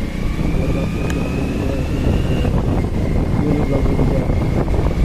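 Motorcycle engine running on the move, with wind buffeting the microphone and a faint high steady whine that rises slightly over the first couple of seconds.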